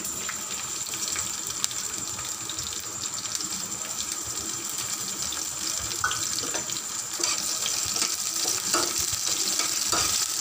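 Chopped onion, garlic and chillies sizzling steadily in hot mustard oil in a wok, with a few short knocks against the pan in the second half.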